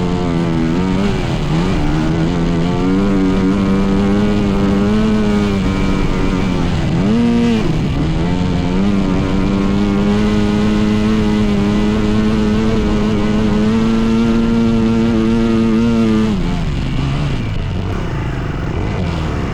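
Dirt bike engine running hard at high revs, with quick drops and rises in pitch about a second and a half in and again around seven seconds. The revs then hold steady until about sixteen seconds, when they fall away and the engine gets quieter.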